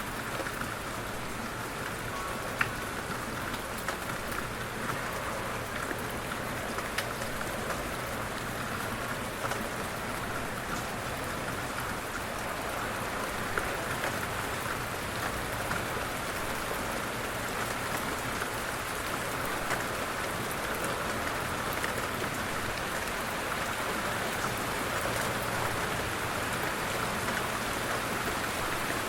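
Steady light rain falling, a constant patter of raindrops with scattered individual drops ticking.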